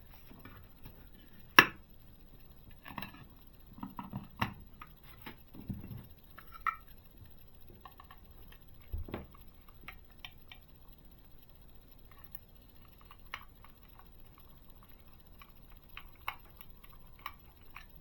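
Small clicks and taps of model-kit parts and tiny screws being handled and fitted by hand, with one sharper click about a second and a half in.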